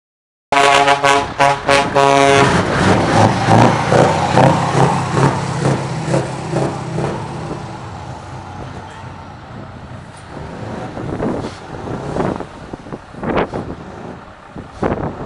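A truck's horn sounds in fast pulses for about two seconds, then the truck's engine runs with a rhythmic pulsing that gradually fades. A few short sharp bursts come near the end.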